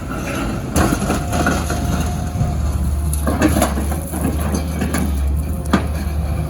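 Excavator's diesel engine running heavily while metal crunches and bangs in several sharp hits, as a steel dumpster is crushed. The engine drone grows stronger about halfway through.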